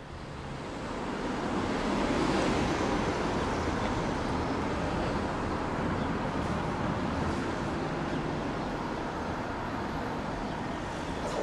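A train approaching and running past. Its noise builds over the first couple of seconds and then holds steady.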